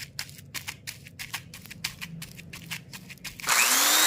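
Light clicks and taps of small parts being handled, then about three and a half seconds in a small electric motor starts with a loud whir, its whine rising as it spins up.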